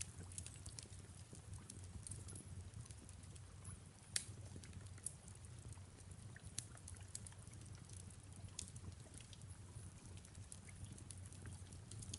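Fireplace crackling faintly: irregular sharp pops and ticks, one louder pop about four seconds in, over a low steady rumble and a soft rain hiss.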